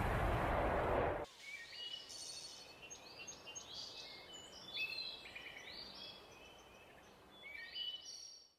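A loud rushing noise that cuts off abruptly about a second in, followed by birds chirping faintly with many short, high calls.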